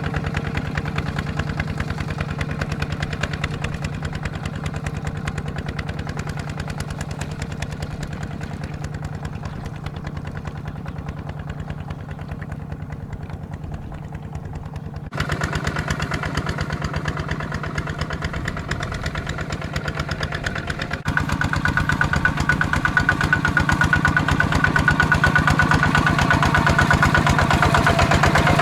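Tractor's single-cylinder Kubota ZT155 diesel engine running steadily with a fast, even firing beat. It becomes abruptly louder and brighter about halfway through and again about two-thirds of the way through.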